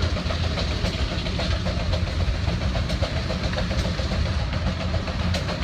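A large engine running steadily with an even, rapid low chugging and a hiss of machinery over it.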